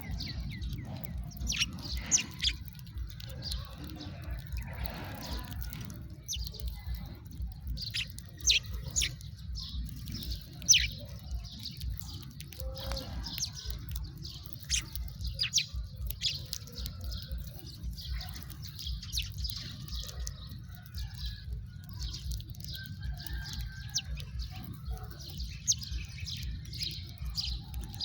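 A flock of house sparrows chirping, many short sharp chirps overlapping without pause, with a few louder ones standing out, over a low steady rumble.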